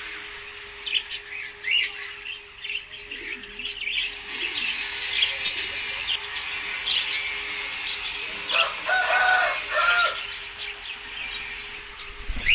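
Small caged pet birds chirping and tweeting, many short high chirps one after another. About nine seconds in, a few lower, held calls sound, with a faint steady hum underneath throughout.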